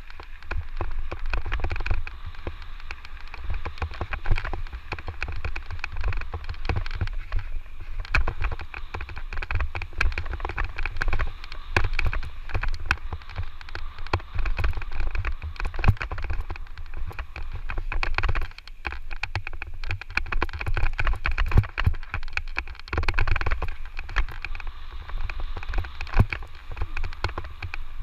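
Electric mountain bike riding over a rough dirt trail: wind buffets the microphone with a low rumble, the tyres run over loose ground, and the bike rattles with frequent sharp knocks.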